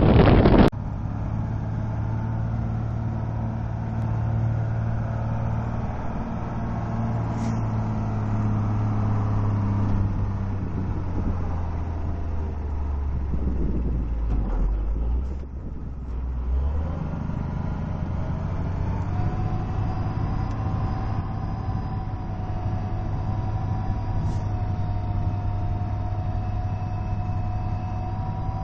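Heavy snow-clearing machine's engine running steadily. Its low hum dips and changes about halfway through, and after that higher whining tones rise slowly.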